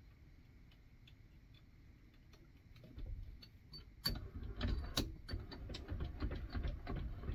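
Small metal clicks and ticks of parts and tools being handled at a metal lathe. They are faint at first and become a louder, busier clatter with a low rumble from about four seconds in.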